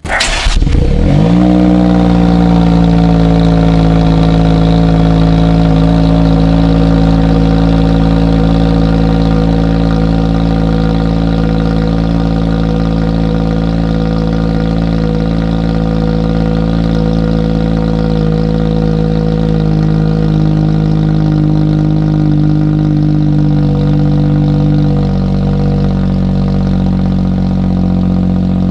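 Honda N-ONE RS's 660 cc turbocharged three-cylinder starting from cold through an HKS Hi-Power SPEC-L II exhaust. It catches at once, flares up over the first second or two, then settles into a steady fast cold idle that steps down slightly about 25 seconds in.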